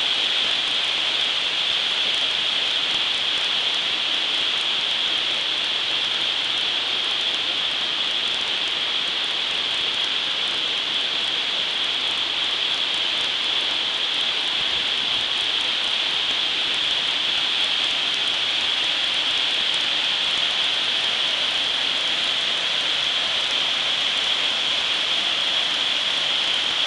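Waterfall pouring in a steady, unbroken hiss, cutting off suddenly at the end.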